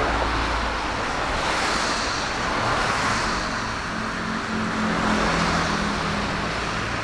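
Boeing 747-8 freighter's four GEnx jet engines running, heard as a steady rushing noise with a low hum that shifts slightly in pitch in the second half.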